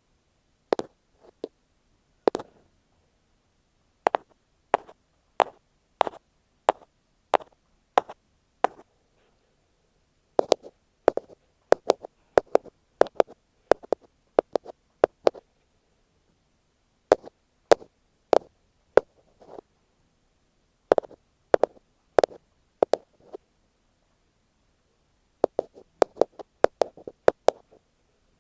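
Ear pick tapping directly on an earphone microphone: close, sharp taps in irregular clusters and quick runs, with short silent pauses between, one about ten seconds in and another near the middle.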